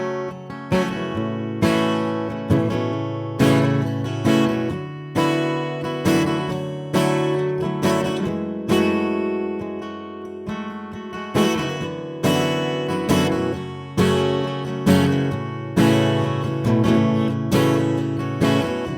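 Acoustic guitar strummed in a steady rhythm, a strong chord stroke a little more than once a second with the chords ringing between: the instrumental intro of a song, before the vocals come in.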